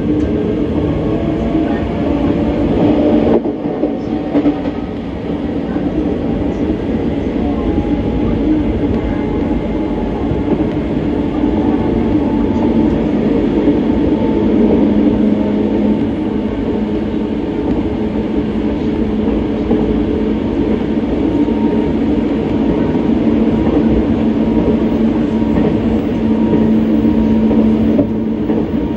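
Hanshin Railway electric train running at speed, heard from inside the carriage: a steady rumble of wheels on the rails with a humming whine from the traction motors that shifts slightly in pitch.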